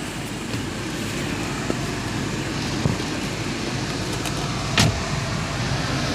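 Car engine idling steadily, with a click about three seconds in and a louder, sharp click a little before five seconds.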